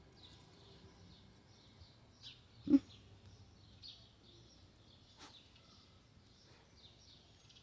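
Small birds chirping, short high notes repeating irregularly. A brief louder sound comes about two and a half seconds in, and a sharp click a few seconds later.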